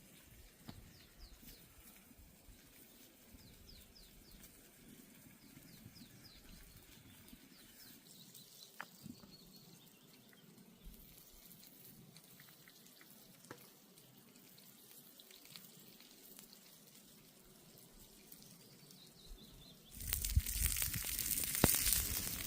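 Quiet outdoor background with scattered small clicks and faint high chirps; near the end a loud steady hiss starts suddenly, like food hitting hot oil or liquid pouring.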